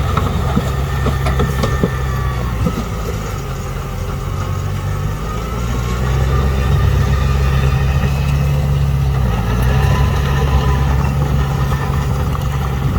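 Heavy diesel engine of earthmoving machinery running, with a few sharp clanks in the first few seconds. The engine eases off about four seconds in and picks up again about two seconds later.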